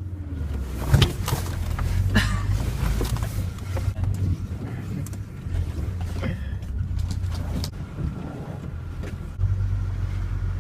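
Off-road vehicle's engine running low and steady, with repeated knocks and rattles as it moves over rough ground.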